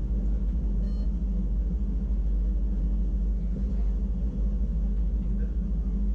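Wengernalp Railway electric rack-railway train running, a steady low rumble with a constant motor and gear hum. A faint brief high squeal sounds about a second in.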